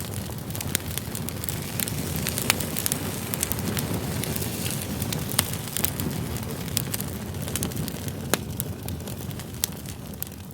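Campfire of firewood logs burning, crackling with frequent sharp pops and a few louder snaps over the steady rush of the flames.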